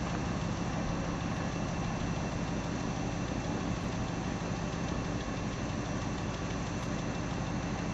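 1965 Ford F600 tow truck's engine idling steadily.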